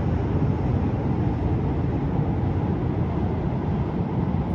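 A passing train's steady low rumble, easing slightly near the end.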